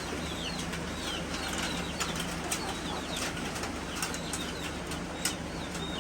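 Chickens peeping, many short falling chirps one after another, with scattered wing flaps and scuffs.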